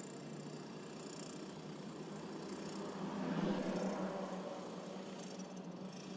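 A motor vehicle's engine running, with a steady low hum that grows louder about three seconds in and then fades.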